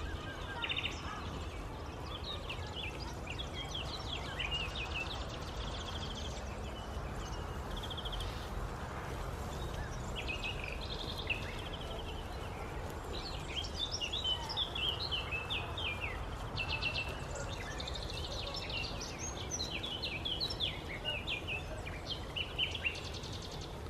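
Songbirds chirping and trilling, busiest in the second half, over a steady low background rumble.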